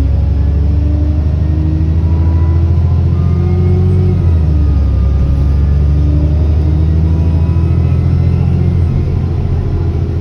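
ADL Enviro400 double-decker bus engine pulling under acceleration, its note climbing and then dropping back as the gearbox changes up, once about four seconds in and again near the end. A thin turbo whine rises above the engine note.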